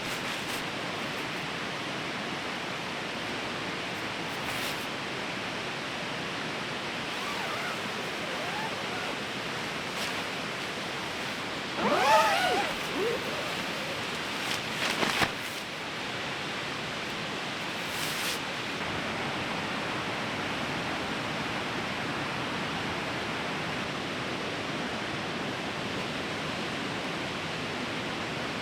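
A fast, raging river rushing steadily, a constant loud hiss of water. About twelve seconds in, a short high sound that bends in pitch rises briefly above it, and a few sharp clicks or knocks follow a few seconds later.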